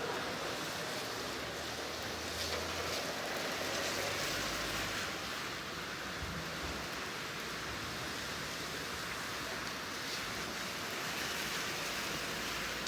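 Steady rain falling, an even hiss with a few louder drops standing out now and then.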